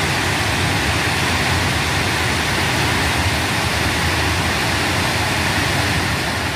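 Chitrakoot Falls, a large waterfall, rushing steadily: an even wash of falling water with no pauses or changes.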